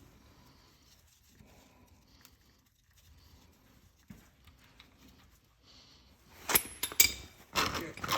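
Faint metallic ticks, then a cluster of sharp clinks and knocks about six and a half seconds in: a wrench working on the 17 mm drain plug of a Subaru STI rear differential.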